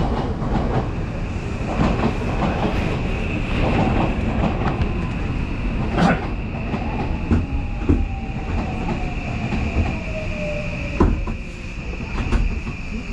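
Odakyu Line electric commuter train running on the rails, heard on board: a steady rumble and a high whine, sharp clacks over rail joints, and, from about halfway in, a motor tone that slowly falls in pitch.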